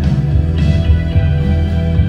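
Live rock band playing: guitar over a loud, steady bass line.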